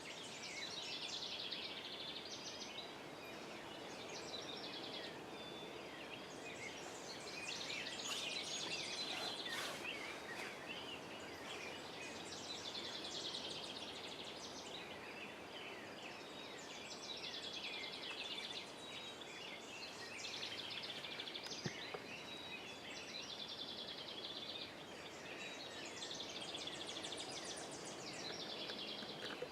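Songbirds singing in the woods: short, high, trilled phrases of about two seconds each, repeating every five seconds or so over a faint steady background.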